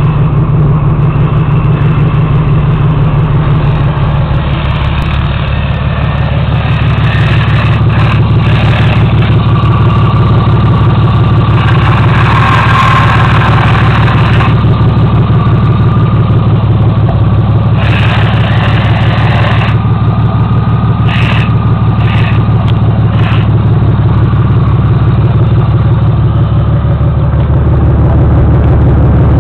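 Turbocharged BMW M3 inline-six idling steadily as it warms up just after a stage 1 turbo kit install. A few short bursts of hiss rise over the idle partway through.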